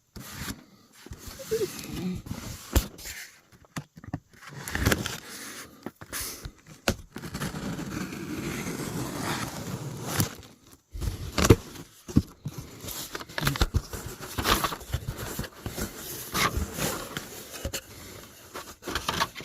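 A package being opened and its contents handled: cardboard and plastic packaging scraping, crackling and rustling, with scattered knocks. A few seconds of steady rustling come about a third of the way in.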